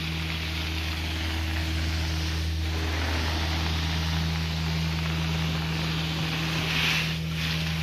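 Carpet-cleaning extraction wand pulling air and moisture up its vacuum hose during slow passes over soiled carpet. There is a steady low hum under a rushing hiss, and the hiss swells briefly about two and a half seconds in and again near the end.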